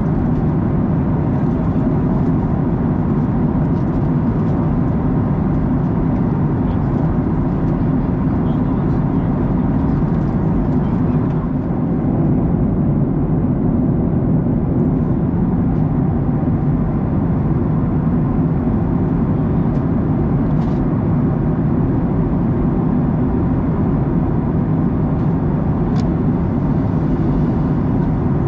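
Steady cabin noise of a Boeing 737-900ER in cruise: a constant low drone from its CFM56 engines and the rush of air past the fuselage, with a faint tick about 26 seconds in.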